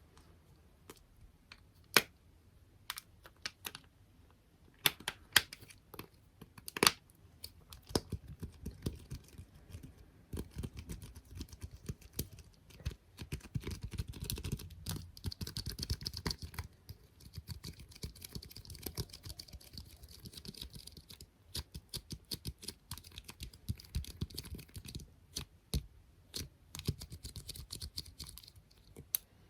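Tapping and handling of small objects such as squishy toys, clips and stickers. A few sharp separate taps come first. From about eight seconds in the tapping turns dense and fast, with soft low thuds, and it ends in quick clicking.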